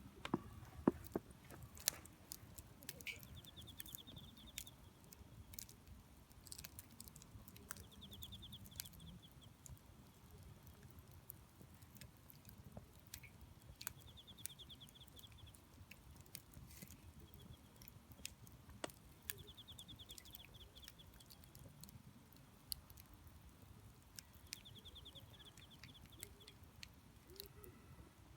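Wood fire in a fire disc crackling, with sharp pops scattered throughout and the loudest snaps in the first two seconds. A faint high, rapid trill about a second long repeats every five or six seconds in the background.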